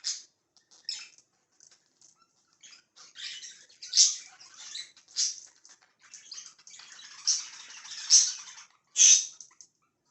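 Pet budgerigars chirping and giving sharp, high squawks with spells of soft chatter in between, settling after the lights go out, and falling silent near the end.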